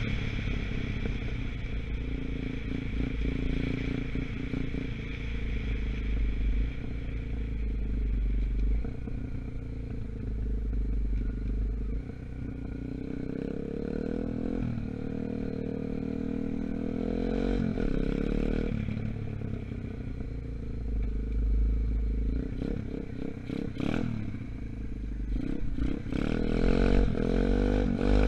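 A 125cc Gunshot dirt bike engine running under way, its pitch rising and falling as the throttle is opened and closed, with an uneven low rumble on the microphone throughout. Several rattling knocks come near the end. The bike is still being run in.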